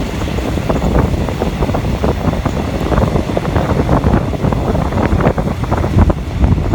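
Wind buffeting the microphone over the rumble and rattle of a moving passenger train, with many short knocks.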